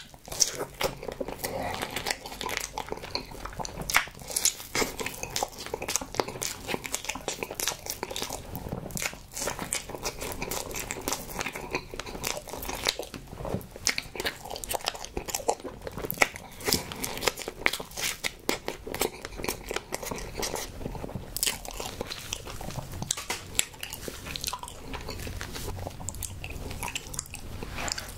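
A person biting and chewing soft strawberry desserts (crepe cake and a cream-filled pastry), with frequent sharp mouth clicks throughout.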